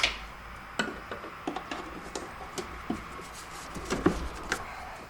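Scattered light clicks and knocks of hands and tools working a part loose in an engine bay, irregularly spaced with no steady running sound.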